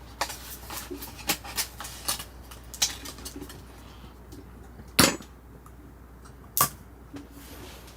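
Firewood burning, with irregular sharp crackles and two loud pops about five and six and a half seconds in.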